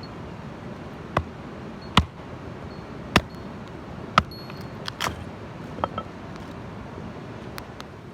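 Steady rushing of a nearby waterfall, with a handful of sharp, irregular clicks and knocks over it.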